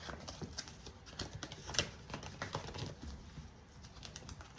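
Faint, irregular light taps and rustles of hands handling paper, cards and binder pages, with a slightly sharper tap a little under two seconds in.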